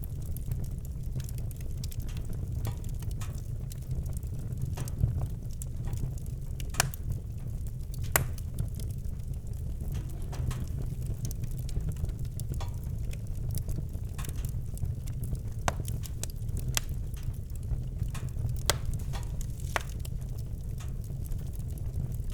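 Campfire crackling, with sharp irregular pops and snaps over a steady low rumble.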